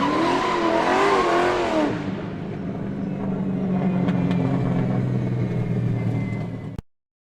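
Car engine revving, its pitch wavering up and down for about two seconds, then settling into a steadier low drone that cuts off suddenly near the end.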